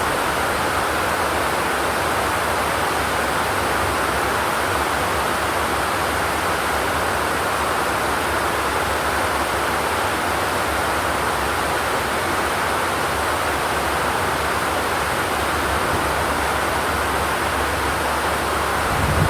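Steady rain falling on a corrugated zinc roof, an even hiss without thunder.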